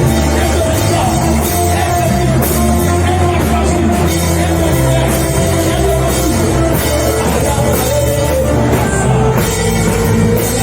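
Loud, steady worship music from a full band, with drum kit and bass.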